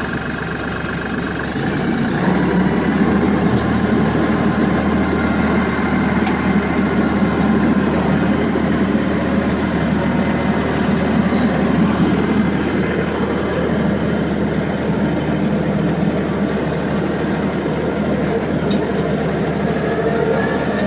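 LS MT240e compact tractor's diesel engine running under load while pulling strapped logs up out of a pit. The engine comes up in level about two seconds in and then holds steady.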